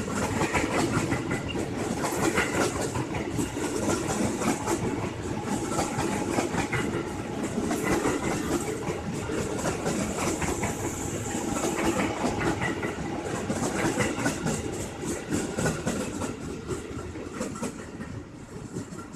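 Train running on the rails, its wheels clattering steadily over the track, dying away near the end.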